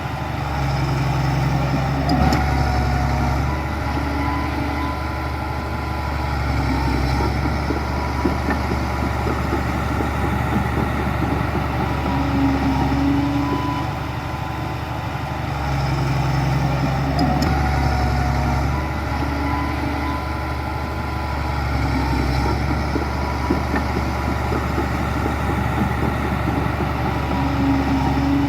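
Heavy diesel engine of earthmoving machinery running continuously, its load rising and easing every several seconds, with a thin steady whine above it.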